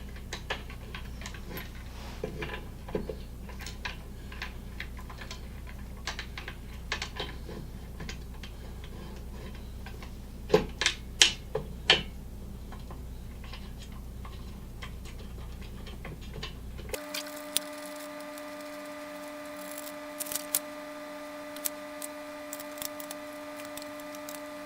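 Small metal clicks and taps of Allen screws, curved washers and an Allen key being handled while bolting a handlebar on, with four sharper, louder clicks about halfway through. About two-thirds in, the background changes to a steady hum.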